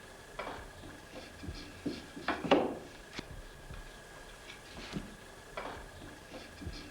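Hand frame saw cutting into wood in slow, uneven rasping strokes, the longest and loudest about two and a half seconds in, as the strap groove of a wooden saddle centerpiece is sawn about half an inch deep.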